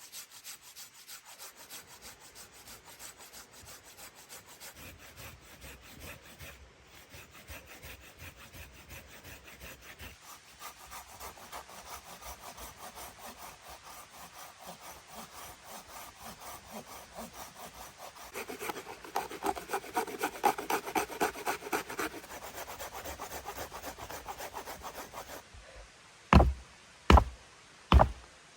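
Hand saw cutting through wood in fast, even strokes, louder for a few seconds about two-thirds of the way in, followed near the end by three sharp knocks of wood.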